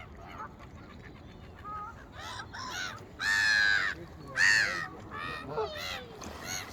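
Large birds calling: a series of harsh, pitched calls, the two loudest and longest a little after the middle.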